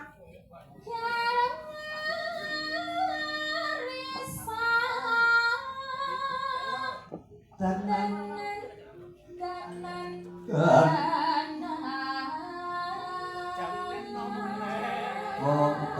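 A Javanese sinden, a female vocalist, singing a melody in small ornamented steps with long held notes, against a musical accompaniment.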